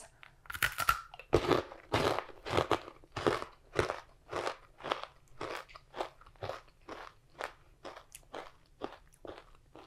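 Someone biting into a thickly toffee-coated Cheeto and chewing it: a big first crunch, then steady crunching chews about twice a second that gradually soften.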